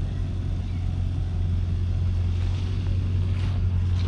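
Ford 7810's 6.6-litre six-cylinder diesel engine running steadily with a deep, even drone.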